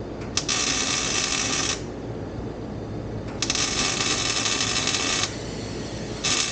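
MIG welder laying tack welds on exhaust pipe: three bursts of crackling hiss, two of them about one and a half to two seconds long and a short one near the end.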